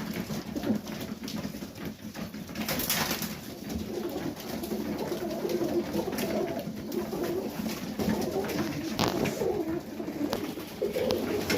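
Pigeons cooing in a loft, several birds overlapping in low murmuring calls, with scattered clicks and short flurries of wing or foot noise.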